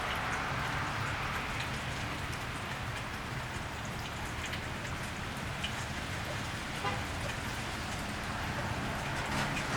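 Steady rain falling on a wet street, with scattered drips and a low rumble underneath.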